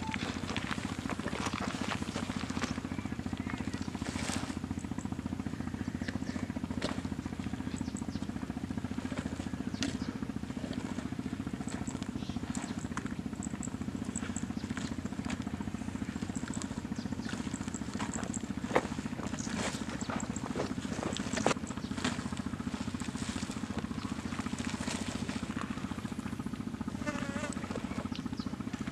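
Steady low rumble outdoors with scattered sharp clicks and knocks, the loudest about two thirds of the way through, and faint high chirps from birds or insects.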